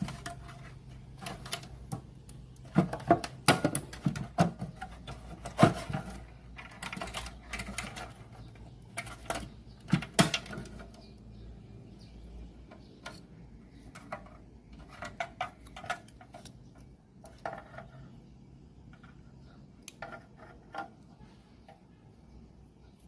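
Irregular clicks, taps and clatter of small tools and parts being handled, busiest in the first half and sparser later.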